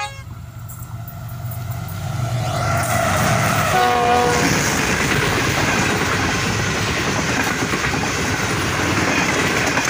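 Passenger train hauled by a GEU40 diesel-electric locomotive approaching and running through the station at speed. The noise builds over the first three seconds, a short horn blast sounds about four seconds in, then the steady loud rush of the passing coaches follows.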